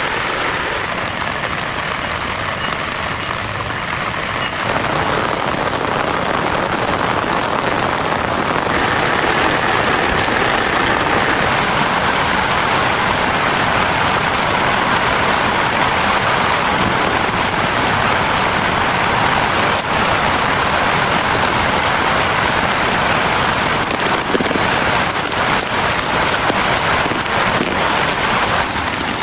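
Heavy rain pouring steadily, a dense hiss that grows louder about five seconds in and again about nine seconds in.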